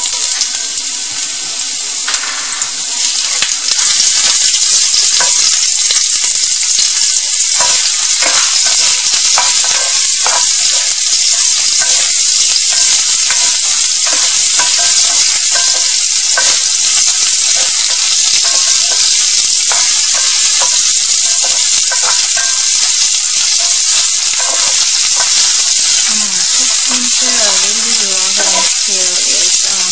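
Sliced ginger and garlic sizzling loudly in hot vegetable oil in a cast-iron skillet. The sizzle builds over the first few seconds as the ginger goes in, then holds steady. From several seconds in, a wooden spoon and spatula scrape and tap against the pan as the ginger is stirred.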